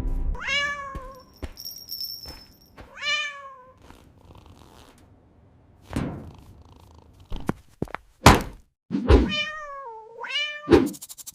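A cat meowing several times: two short meows in the first few seconds and a longer, wavering pair near the end. Several sharp thumps sound in between, the loudest about eight seconds in.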